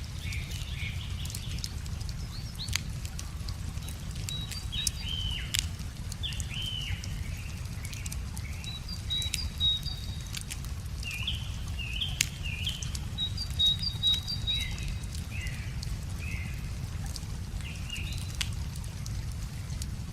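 Wood fire crackling with scattered sharp pops, the loudest around three, five and a half, nine and a half and fourteen seconds in, while small birds sing with short chirping, gliding phrases and a few high trills. A steady low rush, likely the river, runs underneath.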